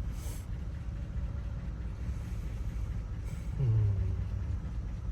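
Steady low rumble throughout, with a short hummed 'mm' from a person's voice a little before four seconds in.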